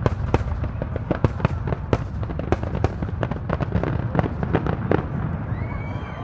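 Fireworks display: a rapid run of sharp cracks and pops over a continuous low rumble, thinning out near the end as the bursts fade.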